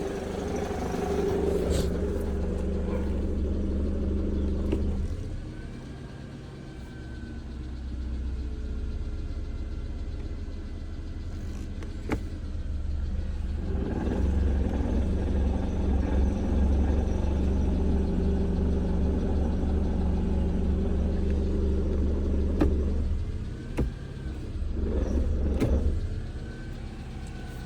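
Mercedes-Benz W211 E200 Kompressor's supercharged four-cylinder engine running at a steady speed, with the engine knock that the owner is recording. It gets louder and quieter in long stretches, with a few sharp ticks.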